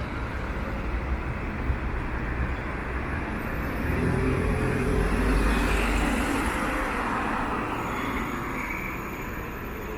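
City street traffic: a steady rush of passing vehicles, with one vehicle passing close, growing louder about four seconds in and fading away by about seven seconds.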